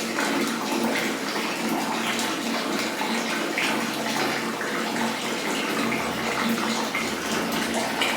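Water running steadily from a tap into a bath.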